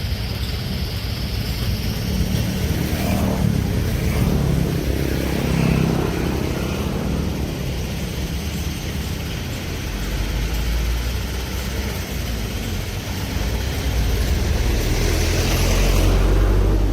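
Heavy diesel construction machinery, such as a large excavator, running with a steady low engine rumble. The rumble grows louder and deeper near the end.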